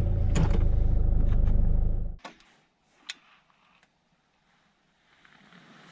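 A car engine idling with a low rumble, then switched off about two seconds in, followed by a few sharp mechanical clicks. A faint steady hiss comes in near the end.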